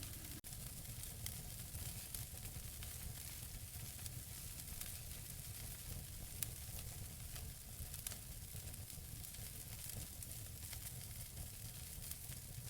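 Wood fire burning in a fireplace: a steady hiss and low rumble of flames with scattered sharp crackles from the burning logs, one louder pop about six seconds in.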